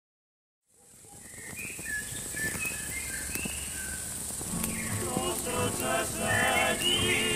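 Outdoor evening ambience fading in: birds chirping with short whistled calls over a steady high hiss. About five seconds in, music with held, sung-like notes begins over it.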